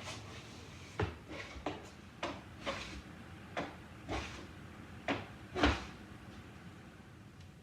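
Low-angle hand plane taking short, light passes over the glued-up joints of a scrap-wood panel, about nine quick strokes roughly a second apart, stopping about six seconds in. This is the final smoothing of the glue joints.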